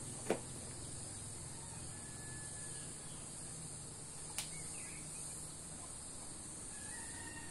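Steady high-pitched insect chorus, with two sharp clicks, one just after the start and one a little past halfway.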